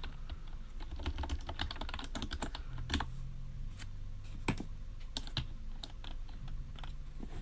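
Typing on a computer keyboard: a run of irregular keystrokes, with a few harder strokes about three and four and a half seconds in.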